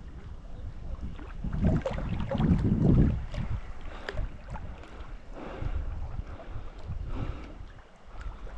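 Wind rumbling on the microphone, with scattered soft knocks and rustles.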